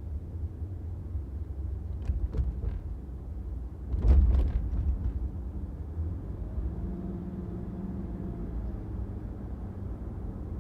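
Steady low rumble of a car driving along a city street, with a few sharp clicks about two seconds in and a louder bump or knock about four seconds in, followed by a faint steady hum.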